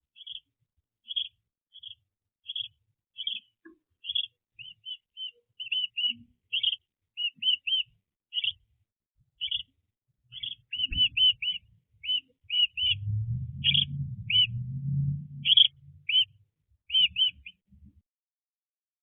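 A small bird chirping over and over in short, high single notes, one or two a second with some quicker runs, stopping near the end. A low rumble comes in for a few seconds past the middle.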